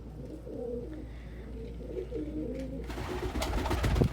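Domestic pigeons cooing, several wavering coos overlapping. Near the end there is a louder burst of scuffling noise.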